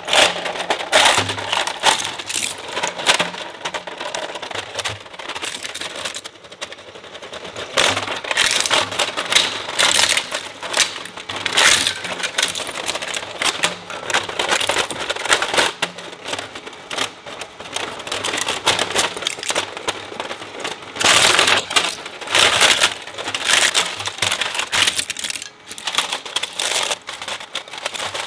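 Industrial shredder chewing up plastic toys: a dense, irregular run of cracking and crunching as the blades break the pieces apart, over the low hum of the shredder's motor, growing louder about three quarters of the way through.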